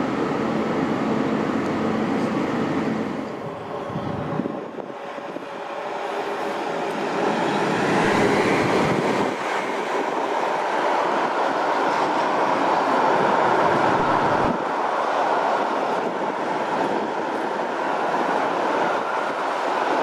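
Train running on the tracks with steady rolling rail noise, which dips briefly and then grows louder and holds steady.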